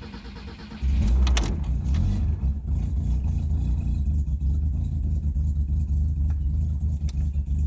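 Cold start of an FSO Polonez Caro's 1.5 OHV pushrod four-cylinder on LPG after two months standing: the engine catches a little under a second in, revs briefly and then runs on steadily. The owner calls it a worn-out, finished OHV with knackered bearings.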